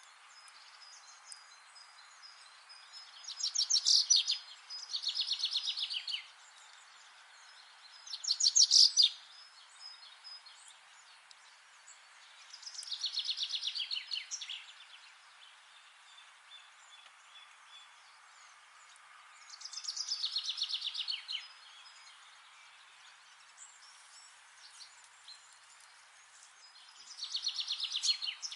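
A songbird singing short, rapid trilled phrases of one to two seconds, repeated about every four to seven seconds, over a steady faint background hiss.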